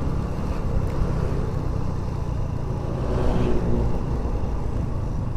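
Motorcycle underway, with steady engine rumble and wind and road noise.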